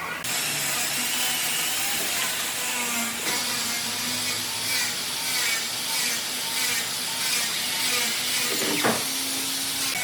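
A power tool working wood, giving a steady dense noise with a brief change in pitch near the end.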